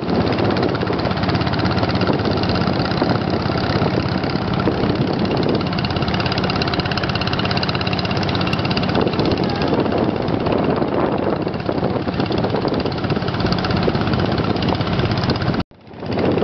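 Small engine running steadily. The sound cuts out abruptly for a moment near the end, then resumes.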